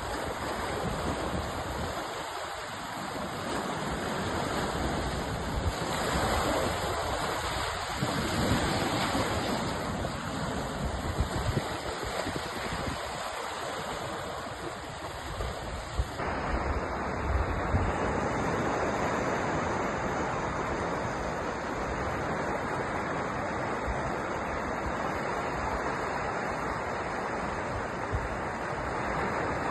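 Sea surf: waves washing and breaking continuously, with wind rumbling on the microphone. The texture of the surf noise shifts slightly about halfway through.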